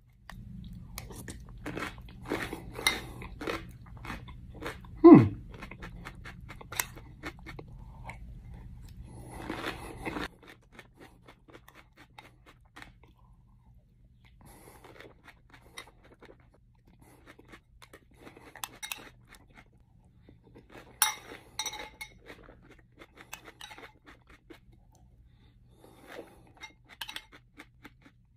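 Close-up crunching and chewing of whole hot peppers (habaneros, jalapeños and Carolina Reapers) eaten by the spoonful from a bowl of hot sauce, with irregular crackly bites and small spoon clicks. About five seconds in, a short sound slides down in pitch and is the loudest moment.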